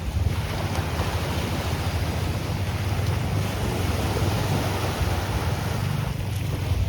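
Sea surf washing onto the beach in a steady rush that swells for a few seconds mid-way, under heavy wind buffeting on the microphone.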